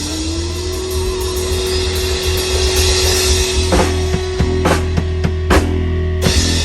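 Rock band playing the closing of a song: a held guitar chord with the drum kit under it, then four sharp drum and cymbal hits about a second apart before the band stops together and the sound rings out.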